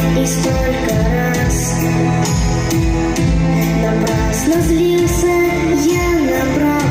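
A boy's solo voice singing a pop song over a band backing with a steady drum beat and bass.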